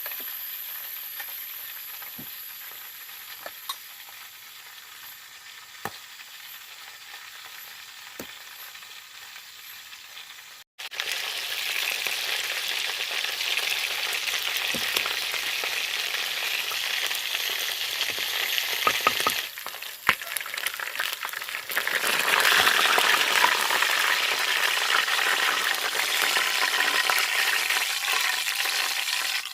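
Food frying in a pan, with a fading sizzle and a few scattered crackles. After a sudden cut about ten seconds in, it gives way to a louder, steady sizzle.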